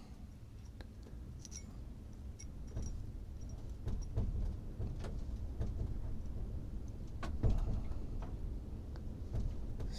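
Scattered faint clicks and small knocks of handling as a measuring tool is set against a stone point, over a low steady room rumble.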